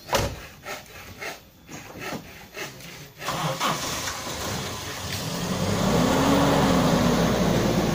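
Toyota Kijang Grand Extra engine being cranked on the starter for about three seconds, then catching and running. It is revved up and eased back down near the end.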